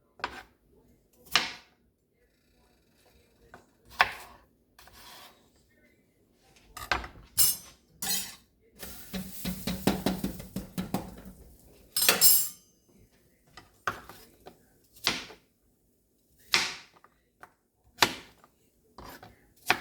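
Knife strokes on a cutting board: single sharp chops a second or two apart, with a busier stretch of clattering and scraping in the middle.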